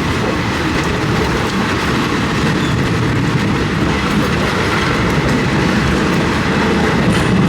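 Passenger train running along the track, a steady, unbroken running noise.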